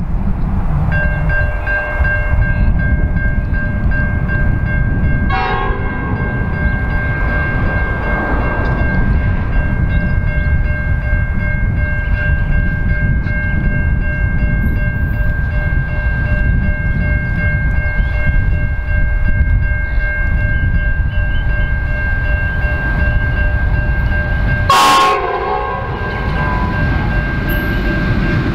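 Freight train running by with a heavy low rumble. A steady high-pitched tone of unchanging pitch sounds over it for most of the time, with two sharp clicks, one about five seconds in and one near the end.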